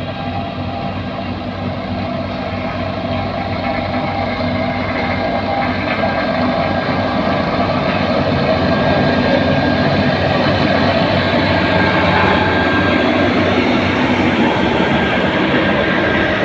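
A heavy diesel engine running steadily, growing gradually louder over the first half and then holding.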